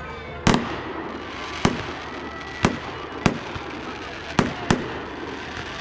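Six sharp bangs at irregular intervals, about a second apart at first and two close together near the end, over a steady background hubbub.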